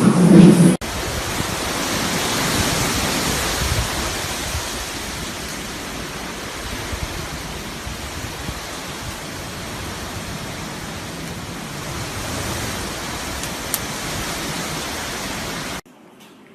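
Storm noise from the hurricane: a steady, even rushing across all pitches, which cuts off abruptly near the end. A loud low rumble ends suddenly in the first second, before the rushing begins.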